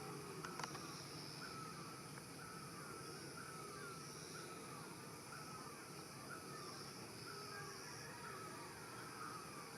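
Faint outdoor ambience in which a bird repeats a short chirping call about twice a second, over a low steady background hum.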